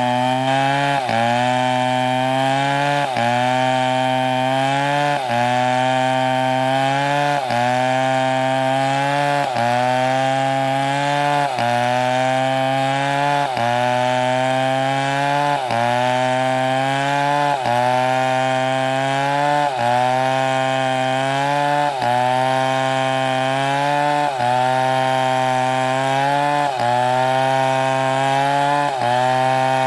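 STIHL chainsaw cutting wood under load, its engine pitch dipping and recovering regularly about once a second.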